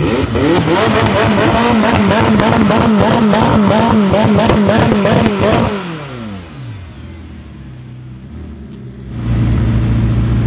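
McLaren 600LT's twin-turbo V8 revved in quick repeated blips, about three a second, with sharp exhaust pops between them, then its pitch falls away and it settles quieter. About nine seconds in a louder steady engine drone sets in.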